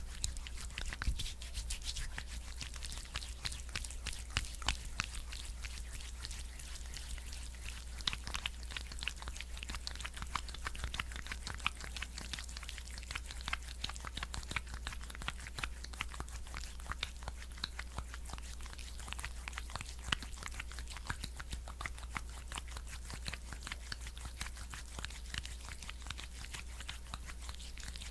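Close-miked sticky, wet crackling of a thick skincare product being worked by hand: a dense, continuous patter of fine clicks, over a steady low hum.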